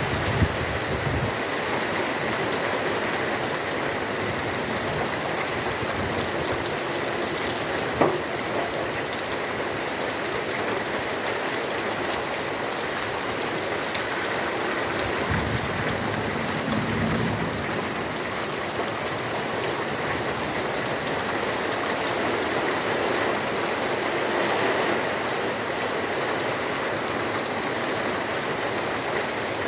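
Heavy rain falling steadily, a dense even hiss, with one sharp tap about eight seconds in.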